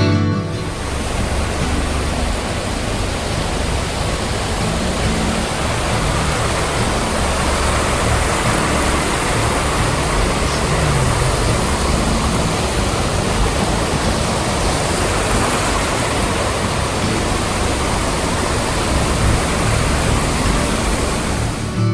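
Rushing mountain stream: a steady, unbroken roar of water with a deep low rumble underneath.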